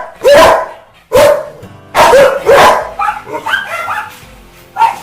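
Rottweiler barking angrily: a run of loud barks in the first two and a half seconds, softer higher-pitched sounds about three seconds in, and one more bark near the end.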